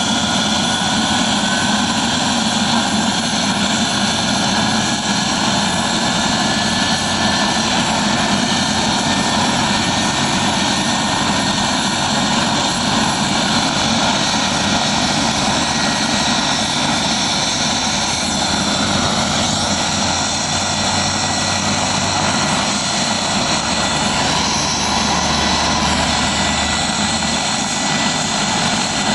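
Helicopter running on the ground with its main and tail rotors turning, a loud steady engine and rotor noise, while it warms up before lifting off. A thin whine rises slowly in pitch over the first dozen seconds.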